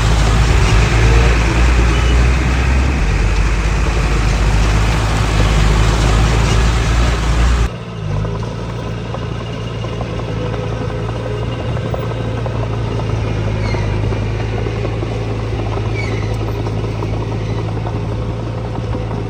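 Diesel engines of earthmoving machinery running steadily. About eight seconds in the sound cuts abruptly to a somewhat quieter engine drone.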